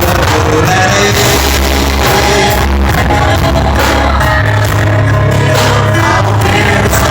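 A band playing loud Christian music, with singing over bass and drums.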